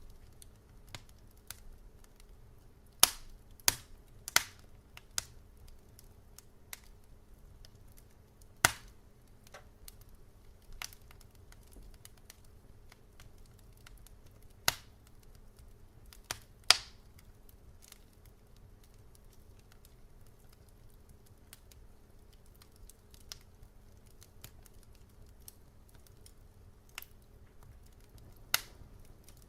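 Wood fire crackling in a fireplace: irregular sharp pops and snaps, some loud and many faint, spaced unevenly over a faint low hiss.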